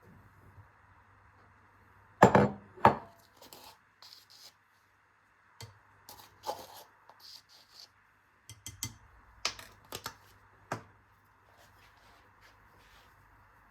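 Kitchen work: two loud knocks about two seconds in, then irregular lighter taps, clicks and rustles of utensils and dishes being handled, over a faint steady hum.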